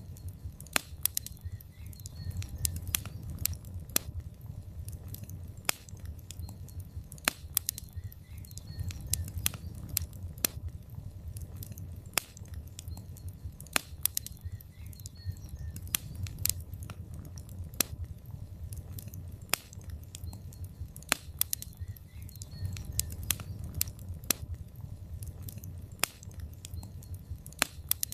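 Wood logs burning in a fireplace: irregular sharp crackles and pops, several a second at times, over a low steady rumble of the flames.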